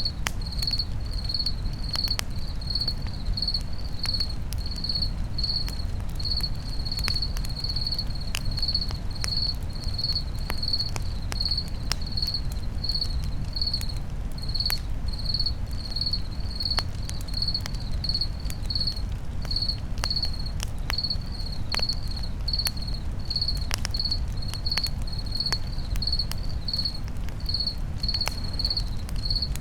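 A cricket chirping steadily, about two short chirps a second, over a campfire crackling with sharp scattered pops and a low rumble of flames.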